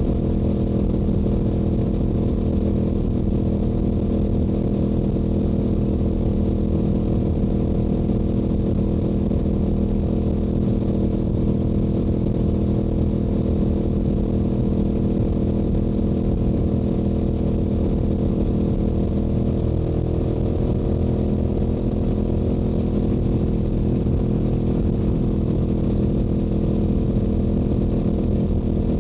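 Stock Yamaha YZF-R7's parallel-twin engine running at a steady highway cruise through its stock exhaust, an even drone that holds almost the same pitch throughout.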